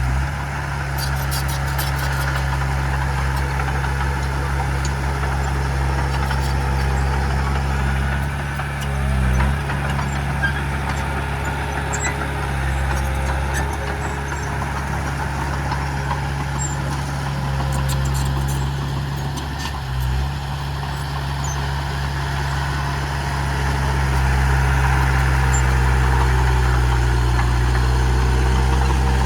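Heavy diesel engine of earthmoving machinery running steadily, easing off briefly twice and working louder near the end, with faint metallic clicks now and then.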